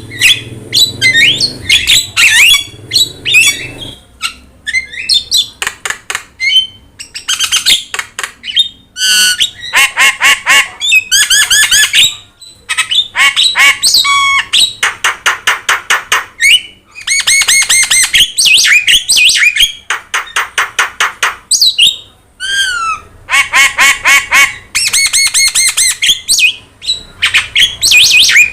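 Javan myna (jalak kebo) in full song: long, rapid runs of harsh squawks and chattering, whistled notes, broken only by short pauses.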